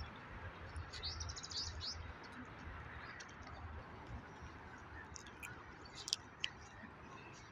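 Small birds chirping outdoors: a quick trill of rapid high chirps lasting about a second, then a few scattered short chirps later, over a faint steady background rumble.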